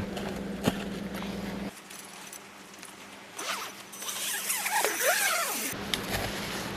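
A zipper being pulled, with a few quick rasping strokes around the middle.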